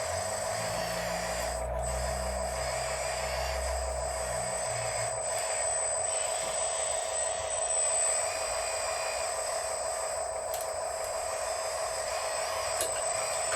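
Small electric motors of radio-controlled construction equipment whining steadily as the machines are worked, with a low rumble in the first few seconds.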